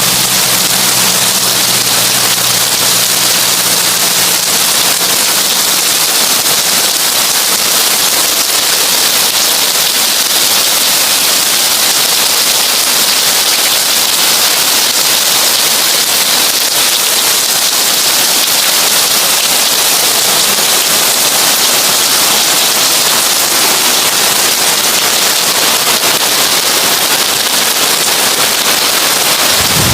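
Heavy rain on a tin roof: a dense, steady patter that does not let up. A low hum underneath fades out in the first few seconds.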